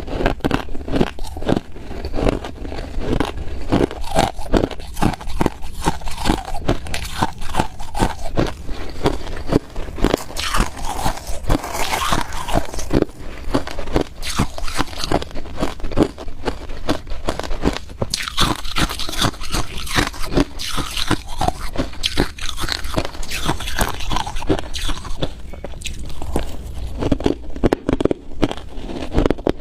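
A person biting and chewing ice, a rapid, unbroken run of crunches and cracks.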